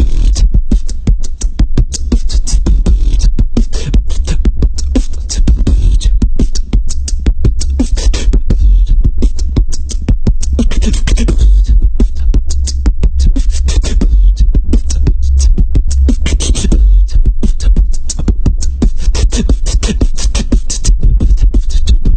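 Beatboxing: vocal percussion made with the mouth, fast clicking and snapping strokes over a deep bass.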